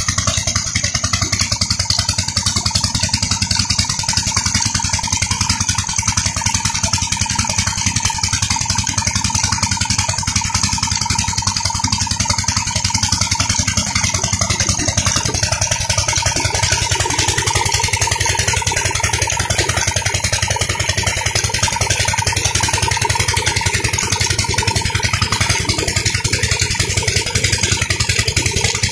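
Petter 16 HP diesel engine of a tube well running steadily with an even, rapid firing beat; its sound fills out slightly in the middle about halfway through.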